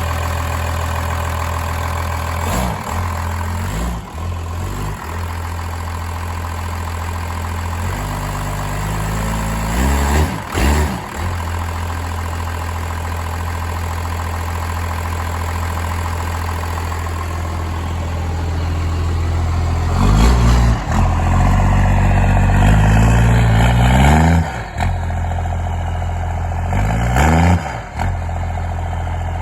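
1993 Dodge D250's 5.9-litre Cummins diesel idling steadily and revved several times: short blips about 3 and 10 seconds in, a longer run-up from about 20 to 24 seconds, and another blip near the end. It is a high-mileage engine (363,000 miles) that sounds like an old Cummins and runs great.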